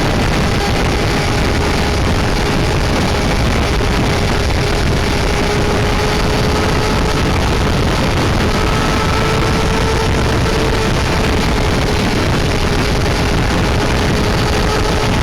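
Honda CBR250RR (MC22) inline-four engine running at steady high revs on the move, its thin whine under heavy wind noise on the microphone. The engine pitch edges up slightly around the middle and settles again.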